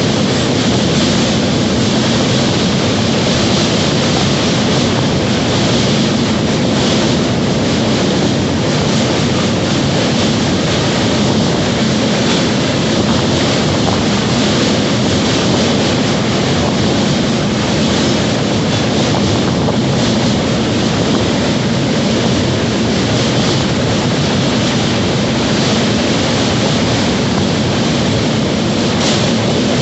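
A train running at speed: a steady, unbroken rumble and rush of noise.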